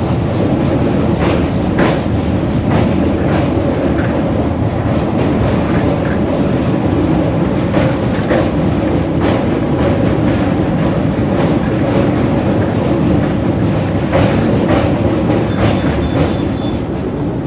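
Express passenger train running at speed, with a steady rumble and irregular clacks of the wheels over rail joints.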